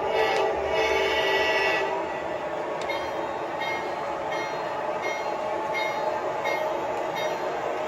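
A train horn sounds one chord for about a second and a half. Then a bell dings steadily, about once every 0.7 s, over the steady rumble of the passing train.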